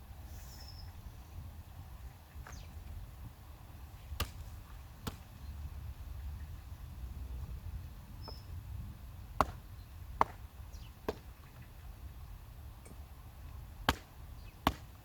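About seven sharp cracks or knocks at irregular intervals over a steady low rumble.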